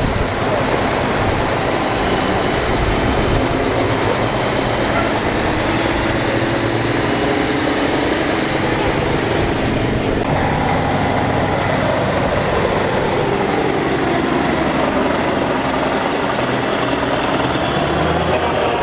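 Heavy trucks driving past one after another with their engines running, the engine pitch rising and falling as they go by.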